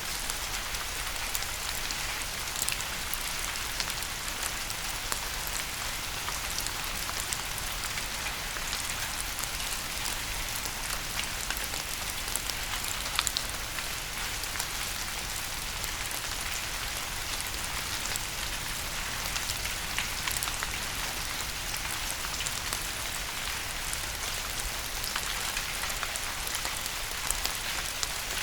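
Steady rain falling, a continuous hiss with many individual drops ticking on a hard surface.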